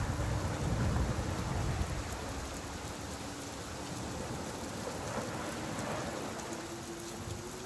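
Steady rain falling, an even hiss, with a low rumble in the first couple of seconds.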